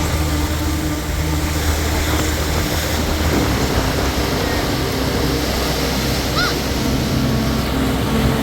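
Strong storm wind rushing across the microphone, with rough sea surf beneath it, a steady unbroken noise.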